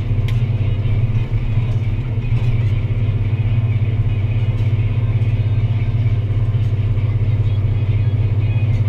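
Deutz-Fahr Agrotron 165 MK3 tractor's six-cylinder diesel engine running steadily under load while pulling a plough, a loud even drone.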